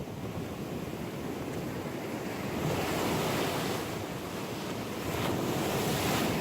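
Ocean surf breaking and washing up the shore, surging twice, with wind buffeting the microphone.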